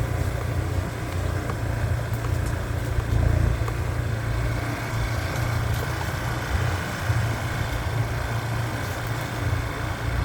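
Motorbike engine running steadily at low speed on a rough dirt track.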